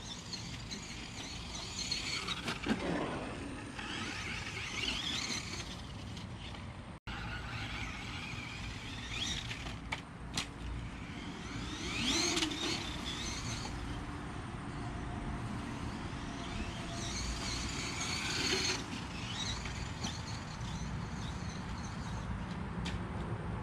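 Brushless electric motor of a radio-controlled truck (Dynamite Tazer 3000kV on 2S) whining up and down in pitch in several bursts of acceleration, over a steady rumble of the truck running across the ground. The sound cuts out for an instant about seven seconds in.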